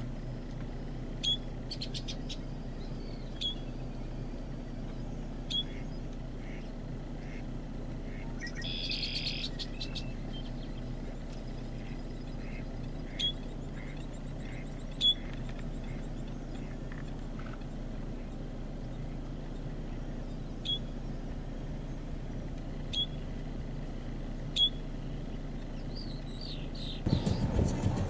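A small bird giving single short, sharp chirps every two seconds or so, with a brief busier run of notes about nine seconds in, over a steady low hum. A louder low rumble comes in just before the end.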